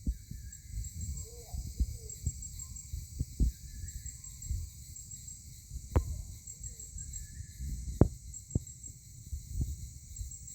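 Outdoor ambience: insects chirping high-pitched in short, rapid groups, with a few faint bird calls. Low irregular thumps and two sharp clicks, about six and eight seconds in.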